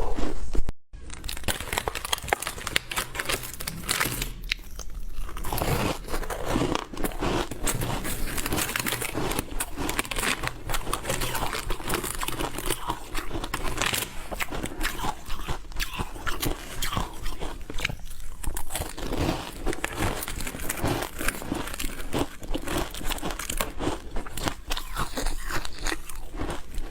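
Ice being bitten and chewed: a dense, continuous run of sharp crunches and cracks, after a brief total cut-out about a second in.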